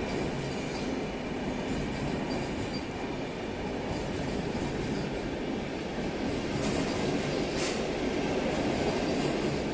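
Intercity passenger train's carriages rolling along the track in the covered underground station, a steady rumble of wheels on rails that swells slightly near the end.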